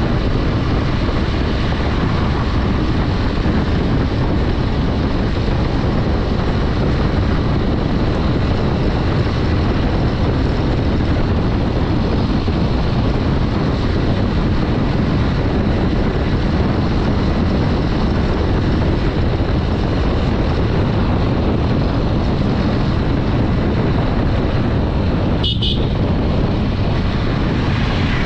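Steady wind rush over the microphone and road noise from a Honda Dream 110 motorcycle riding at speed, its small single-cylinder engine running underneath. A brief horn toot sounds near the end.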